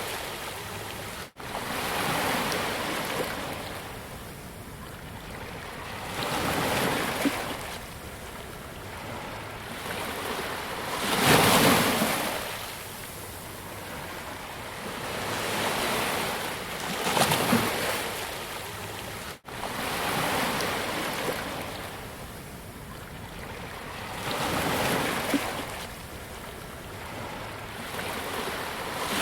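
Ocean waves breaking on a beach: a surge of surf hiss every four to five seconds, with a steady wash in between. The sound cuts out for an instant twice.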